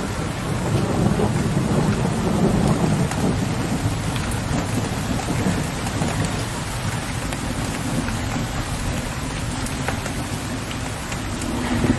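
Steady rain falling, with fine drops ticking, under low rolling thunder that swells about a second in and slowly fades away.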